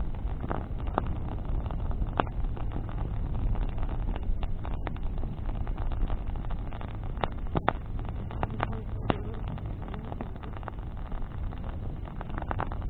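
Bonfire of burning branches crackling: irregular sharp pops and snaps of burning wood, a few louder ones, over a steady low rumble.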